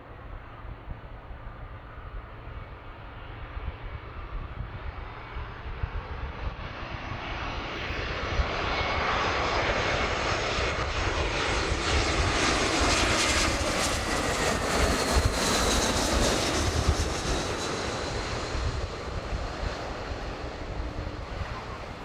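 Jet airliner on final approach passing close by: the engine noise swells to a peak about two-thirds of the way through and then fades. A high whine drops in pitch as it goes past.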